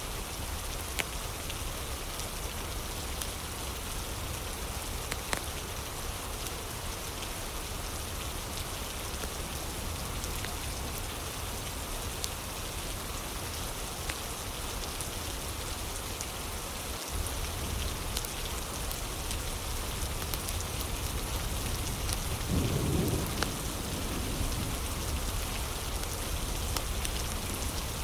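Steady rain with scattered sharp crackles of a wood fire. About three quarters of the way through, a low rumble of thunder swells up briefly.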